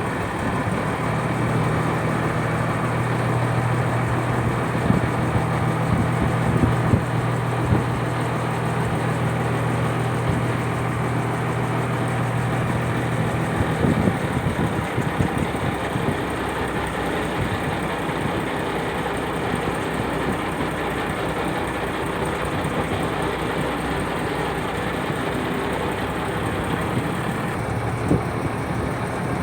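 Purse-seine fishing boat's engine running steadily, a dense mechanical noise with a low hum that drops away about halfway through.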